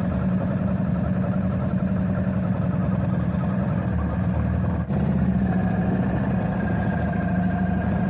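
BMW touring motorcycle's engine running steadily while riding, a continuous even drone with a brief break about five seconds in.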